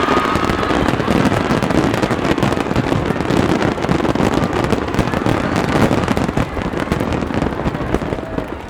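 Rapid barrage of aerial fireworks: many bursts and crackles packed closely into one continuous rumbling crackle, easing off a little near the end.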